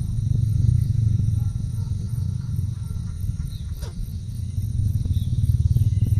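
Insects chirping in a steady pulsing rhythm, about two pulses a second, over a loud low rumble, with one brief falling call about four seconds in.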